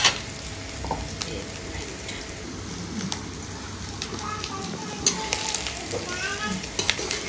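Sliced bitter gourd (karela) frying in hot ghee in an aluminium pot, a steady sizzle, with a steel ladle stirring the pieces and clinking against the pot now and then.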